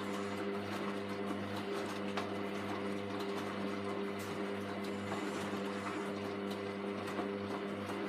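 Hoover washing machine running mid-cycle on a 40°C mixed wash: a steady motor hum at a constant pitch, with faint clicks and rustle over it.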